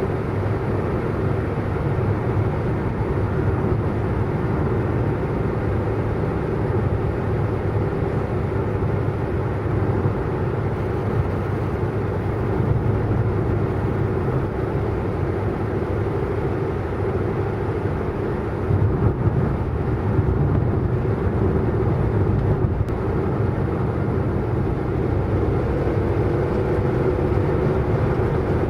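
Car driving at speed: steady engine and road noise with a low rumble and a constant droning tone that rises slightly near the end.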